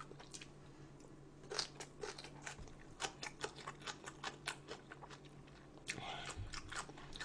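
A person chewing and biting food close to the microphone: a run of short, irregular mouth clicks, several a second, starting about a second and a half in.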